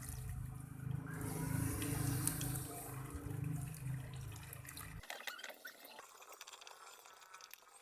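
Water running and splashing in a washing machine, over a low hum that stops suddenly about five seconds in, leaving fainter trickling and drips.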